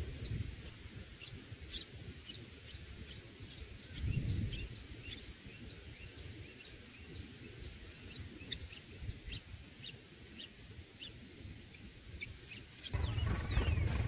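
Small birds chirping: short, high chirps, a few each second and irregularly spaced, over a low rumble. About thirteen seconds in, the rumble gets much louder and rising call notes begin.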